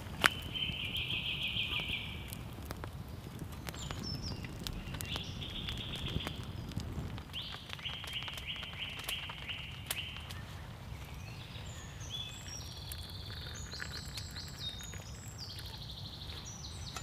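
Woodland birds singing: trilled phrases of a second or two repeat through the first half, and higher, quicker chirps follow in the second half. Beneath them runs a steady low rumble with scattered sharp clicks, the loudest a single click just after the start.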